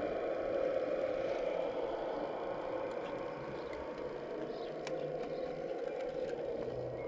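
Small electric motor and hydraulic pump of a radio-controlled model construction machine running steadily, a continuous whine with a few light ticks.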